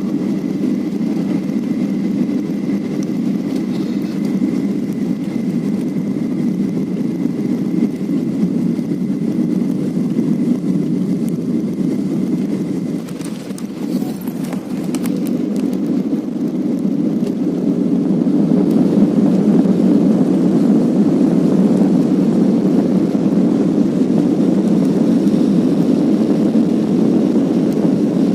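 Airliner engine and airflow noise heard inside the cabin during landing: a steady, loud rumble with a faint high whine over the first half. It dips briefly with a few clicks about halfway through, then grows louder and stays up.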